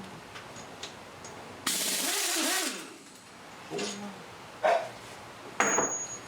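Pneumatic impact gun run in one burst of about a second, a hiss of exhaust air with the motor's pitch rising and falling, as it spins out a cylinder head bolt on a Buick 455 V8; a few sharp metallic clinks and knocks follow, one with a short ringing note near the end.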